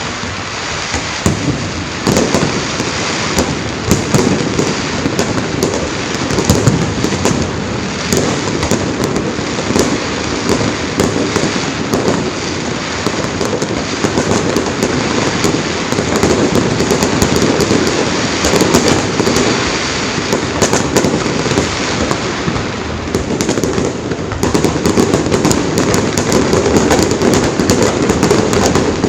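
Fireworks display: a continuous barrage of bangs and crackling from many shells bursting in quick succession, growing louder near the end.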